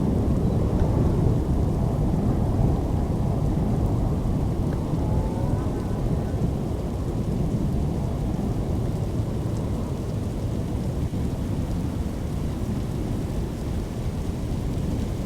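Thunderstorm: rain with a continuous low rumble, steady and without separate claps, easing a little toward the end.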